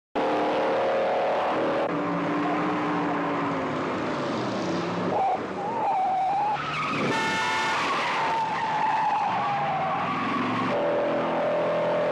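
Car-chase sound from a film: car engines running hard and tyres squealing and skidding as the cars corner at speed. It cuts in abruptly at the start.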